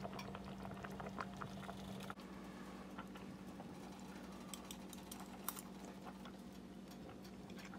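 Faint small clicks and mouth noises of a person tasting and chewing a spoonful of boiled beans, over a steady low hum.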